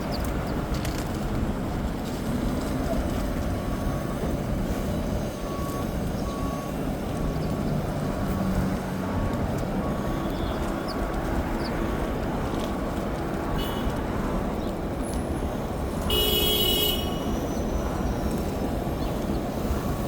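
City street traffic rumbling steadily. Through the middle a truck's reversing alarm beeps at an even pace. Near the end a vehicle horn sounds once for about a second.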